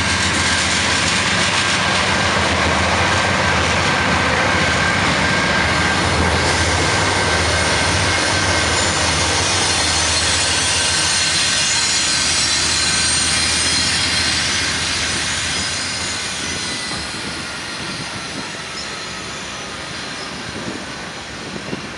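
Several CN diesel-electric freight locomotives pass close by, their engines running with a deep, steady drone. About fifteen seconds in the engine sound fades and the quieter rolling of the tank cars behind them takes over, with a faint high whine.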